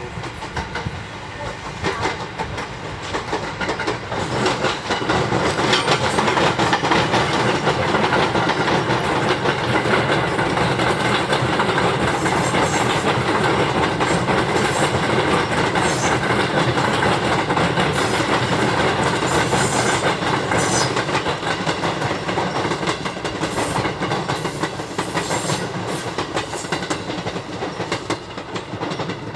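Haruka express electric train passing on the track: a steady rumble of wheels on rails with clickety-clack over the rail joints. It builds up over the first several seconds, holds loud, and eases off toward the end.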